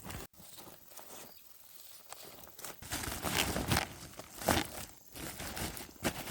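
Dry corn plants rustling and crackling: an irregular run of crunches and tearing sounds, loudest in the second half.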